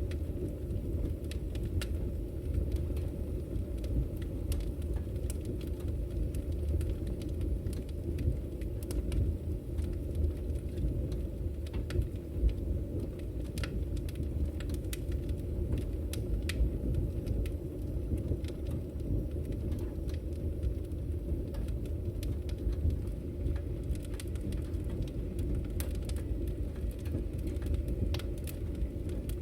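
Firewood burning in a fireplace: a steady low rumble of the fire with scattered small crackles and pops throughout.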